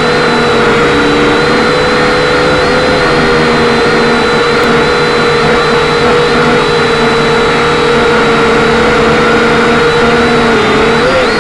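Quadcopter's electric motors and propellers running loud and steady in flight, a droning whine that wobbles slightly in pitch. Near the end the pitch dips briefly and rises again as the throttle changes.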